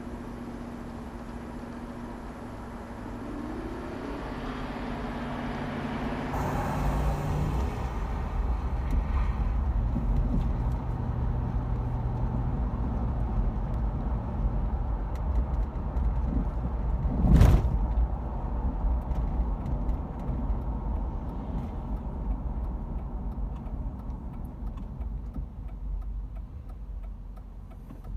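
Car engine and road noise as picked up by a dashcam, with one sharp, loud bang a little past halfway.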